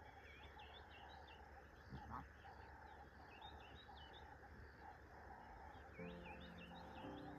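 Faint wild birdsong: repeated short chirps and trills over a lower call that pulses steadily. A low steady hum comes in near the end.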